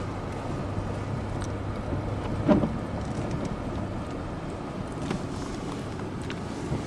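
Car driving, with a steady low engine hum and road noise; a single knock about two and a half seconds in, and the hum grows fainter after about three seconds.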